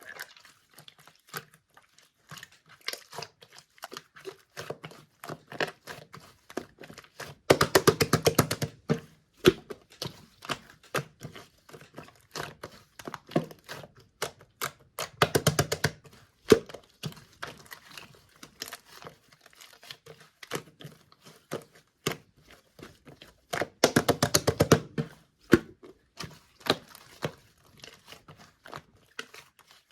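Handling noises: scattered clicks and crinkling, with three louder stretches of rapid clicking, one about a third of the way in, one near the middle and one near the end.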